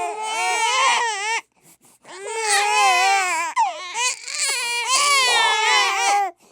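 Babies crying hard in loud, high-pitched wails whose pitch wavers up and down, with a short break for breath about a second and a half in.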